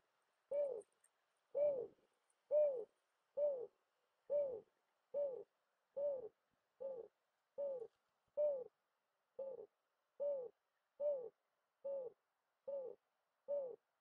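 A bird giving a long, evenly paced series of short low calls, a little more than one a second, each rising and falling slightly in pitch.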